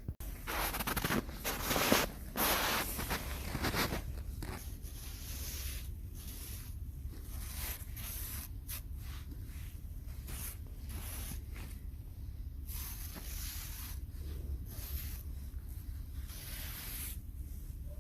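Rough scraping and rustling strokes, loudest and densest in the first few seconds, then lighter and intermittent, over a steady low rumble.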